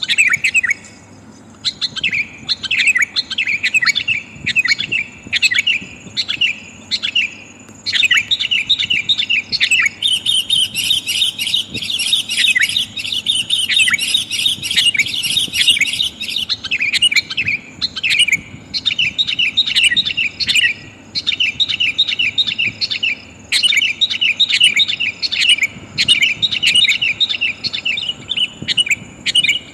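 Sooty-headed bulbul (kutilang) calling: rapid, repeated chattering phrases with short pauses, busiest in the middle. This is the female's call to males, used as a trapping lure.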